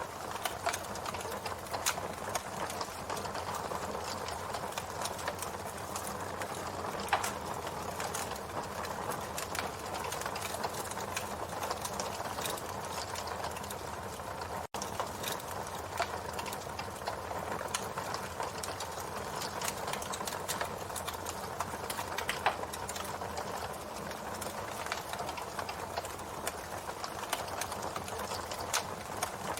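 Campfire burning with a steady hiss and frequent sharp crackles and pops of burning wood. The sound cuts out for an instant about halfway through.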